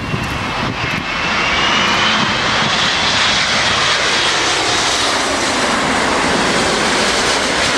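Four-engined Airbus A380 jet airliner passing low on its landing approach: a loud, steady jet roar with a faint high whine on top, swelling about a second in and holding.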